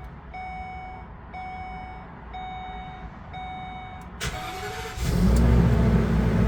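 Dashboard warning chime dinging about once a second, then the starter of a 2019 Coachmen Leprechaun 311FS motorhome cranks briefly and the engine catches about five seconds in and settles into a loud, steady idle.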